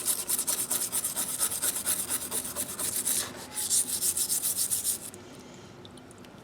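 Rapid back-and-forth hand scrubbing strokes on a pair of rusty steel pliers, several strokes a second, cleaning off the rust. There is a brief lull about three seconds in, and the scrubbing stops about five seconds in.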